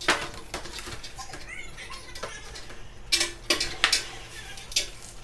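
Large sheet of paper being handled and folded: a few sharp crackles and rustles, the loudest coming about three to four seconds in.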